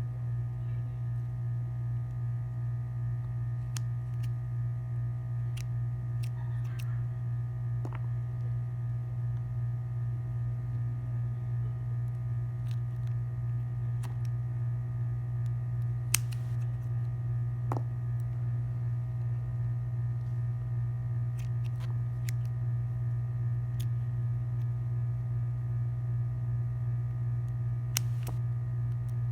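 Steady low electrical hum, with a few sparse, small clicks and taps scattered through it.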